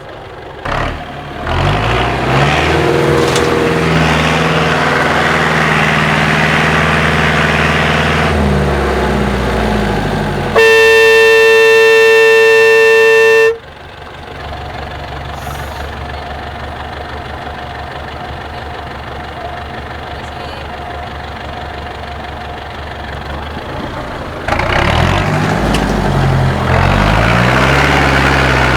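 IFA W50 off-road truck's diesel engine revving hard and held high, then dropping back. A loud horn blasts steadily for about three seconds, and the engine runs lower before revving up again near the end.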